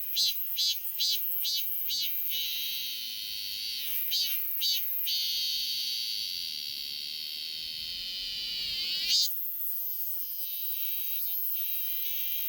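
Korean robust cicada (Hyalessa fuscata, chammaemi) singing: a run of short, evenly repeated pulses, about two or three a second, that runs into a long, steady, high buzz. A few seconds later comes another brief run of pulses before the buzz resumes.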